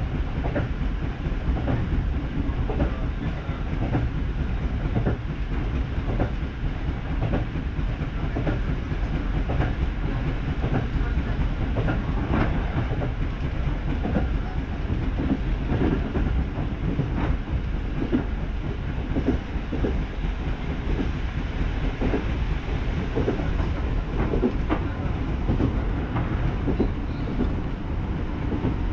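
Train running steadily at speed, heard from inside a passenger car: a low rumble with the clickety-clack of the wheels passing over rail joints.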